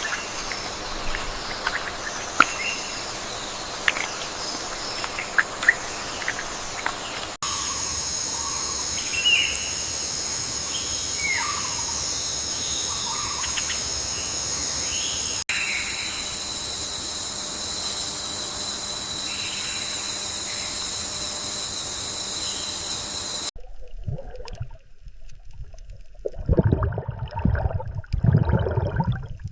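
Natural ambience in several abrupt cuts: birds chirping and calling over steady, high-pitched insect drones that change with each cut. In the last few seconds this gives way to an uneven rushing noise with no drone.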